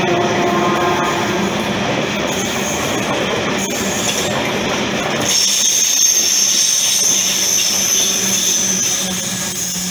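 Wagons of a freight engineering train running past close at speed, wheels rumbling and clattering over the rails. About halfway through, a high steady squeal sets in and carries on as the wagons keep passing.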